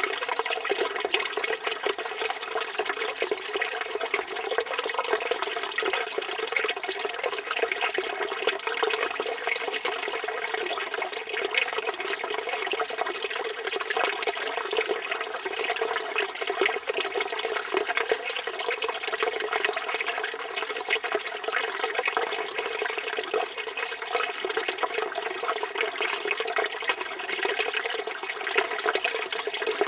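Village fountain water pouring steadily from the spout and splashing into its basin, a constant even rush with no breaks.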